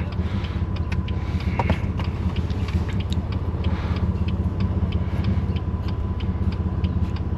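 Straight-piped BMW S55 twin-turbo inline-six of a 2018 F80 M3 Competition running steadily at low revs with a low exhaust drone. Faint regular ticks sound over it.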